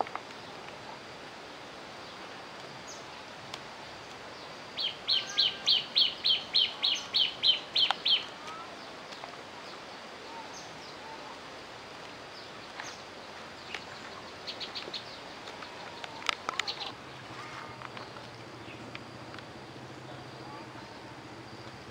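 A bird calling a quick run of about a dozen high, evenly repeated notes, roughly four a second for about three seconds, with a few fainter chirps later over outdoor background hiss.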